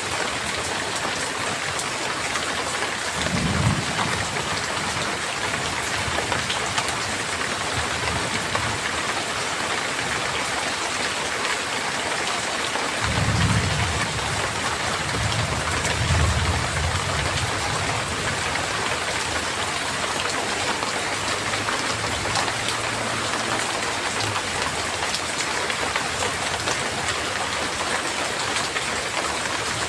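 Steady heavy rain, with rolling thunder: a short low rumble a few seconds in and a longer one in the middle.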